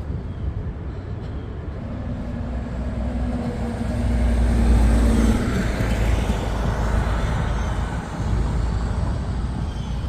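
A motor vehicle drives past on the street with a steady engine hum, growing louder to a peak a little before halfway and then fading, over low road rumble.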